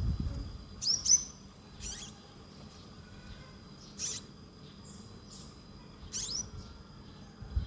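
A songbird giving four short, sharp chirps a second or two apart, each a quick rising sweep, over a steady high-pitched whine.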